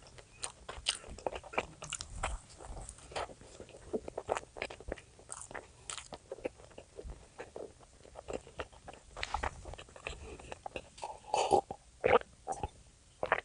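Close-miked eating: a person biting and chewing, with many quick, irregular crunching and clicking mouth sounds and a few louder bites near the end.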